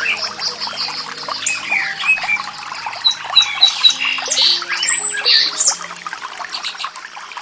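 A chorus of many wild birds singing and calling at once, with overlapping chirps, whistles and quick rising and falling notes, over soft background music of long held low notes.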